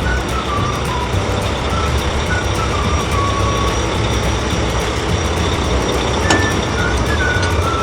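Cartoon truck engine sound effect: a steady low engine rumble, with short higher tones sounding over it now and then.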